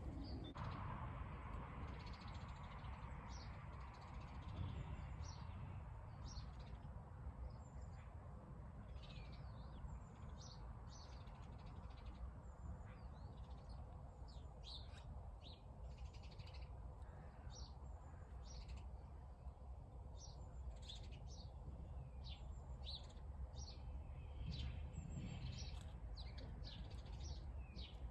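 Small garden birds chirping, with many short high calls scattered throughout, over a faint steady low rumble.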